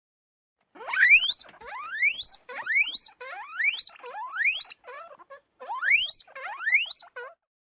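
An animal call repeated about seven times, each a loud whistle that sweeps steeply upward in pitch over about half a second, with short gaps between calls.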